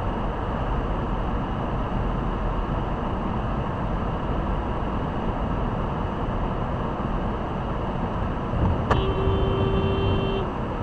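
Steady road and engine noise of a car driving, heard through a dashcam. About nine seconds in, a steady pitched tone sounds for about a second and a half.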